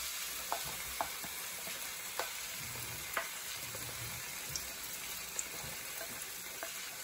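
Marinated chicken strips sizzling in hot olive oil in a nonstick frying pan: a steady frying hiss. A few light taps of a spoon against the glass bowl and the pan sound over it as the chicken is scraped in.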